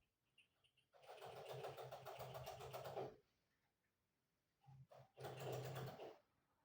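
A small hand-held power tool's motor running in two short bursts, the first about two seconds long and the second about one second, with a steady buzz and a fast pulse.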